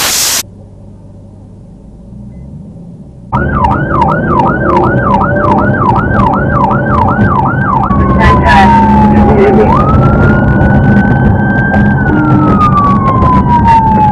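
Police patrol car siren switched on about three seconds in: a fast yelp of quick repeated rising sweeps, then a slow wail that rises and falls, over engine and road noise as the pursuit begins. A loud rushing noise cuts off within the first half second.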